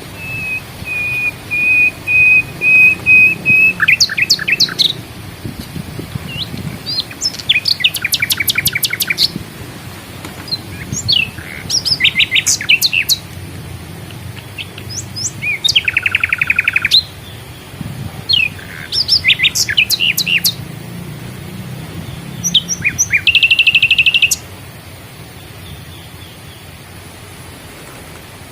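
A songbird singing: a long steady whistled note first, then bursts of rapid chirps and trills, some sweeping up and down. The song stops a few seconds before the end, leaving a faint low background.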